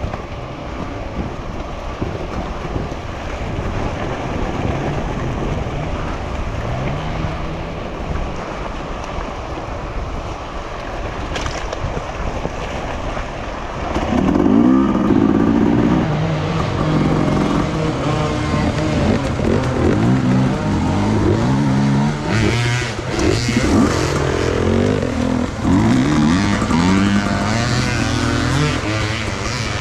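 Enduro motorcycle engine being ridden off-road, its pitch rising and falling with the throttle. It gets louder about halfway through, with quick repeated revs up and down.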